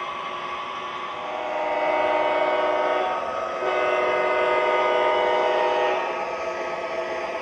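Diesel horn sound effect from an MTH Proto-Sound 3 model ES44AC locomotive's onboard speaker: two long blasts, the second longer, over the model's steady engine-running sound.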